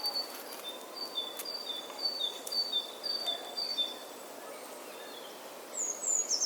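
A bird singing a repeated series of short whistled notes that alternate between a higher and a lower pitch, then a few quick high notes sliding downward near the end, over a steady outdoor hiss.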